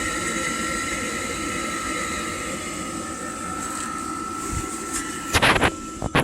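Rinnai tankless water heater running, with a steady rushing noise and a steady high whine. About five and a half seconds in, loud rustling knocks cut in.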